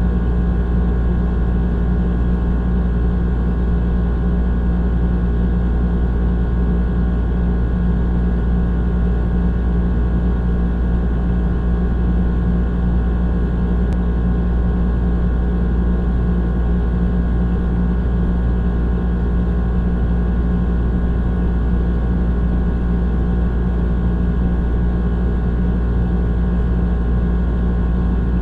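Old air conditioner running steadily: a deep, constant hum under an even rushing noise, with no change in pitch or level.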